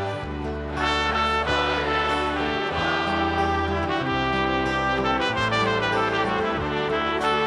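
Live rock band playing an instrumental passage between sung verses: a held lead melody over bass notes that change every second or two.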